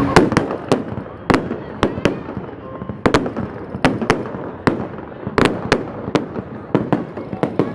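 Fireworks going off in an irregular run of sharp bangs, about two or three a second, each with a short echo.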